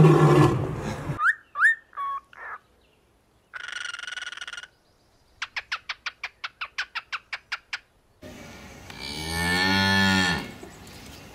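A run of separate animal calls: a loud call ending about a second in, a few short rising chirps, a one-second buzzing call, and a rapid series of about a dozen clicking chirps. Then a cow moos once, low and drawn out for about two seconds; this is the loudest sound.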